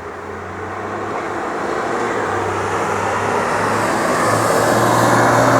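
A road vehicle passing outside, heard through an open window: a broad traffic noise that swells gradually and is loudest near the end.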